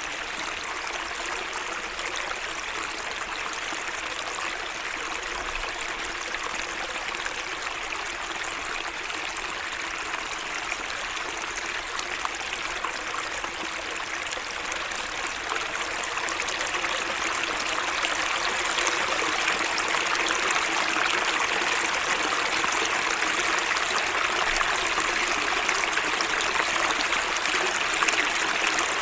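Small garden stream of running water trickling and splashing steadily, growing a little louder about halfway through.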